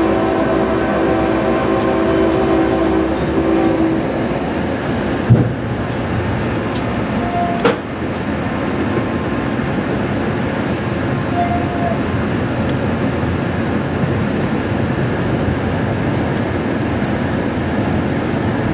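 Amtrak Piedmont passenger train running on the rails with a steady rumble. A steady pitched tone holds for the first four seconds or so, and there are two sharp knocks, about five and eight seconds in.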